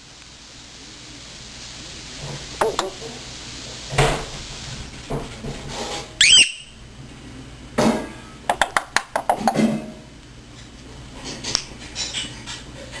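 African grey parrot making mimicked household sounds: a loud, short squeaky whistle about halfway through, then a rapid string of clicks, with scattered single clicks around them.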